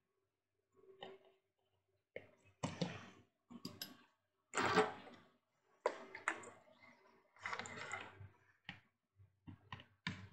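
Irregular small clicks, taps and scrapes of an LED bulb's parts being handled as the old LED plate is taken out of the bulb housing.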